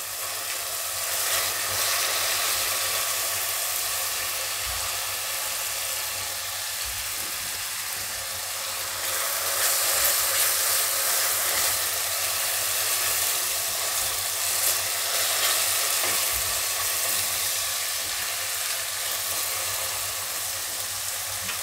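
Grated onion sizzling in hot oil in a wok, stirred with a silicone spatula: a steady frying hiss that swells a little around the middle.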